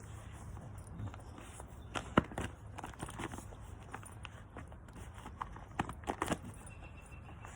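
Dog working at inflatable plastic swim armbands stuffed with treats: scattered light knocks and crinkles, the sharpest about two seconds in and a quick cluster near six seconds.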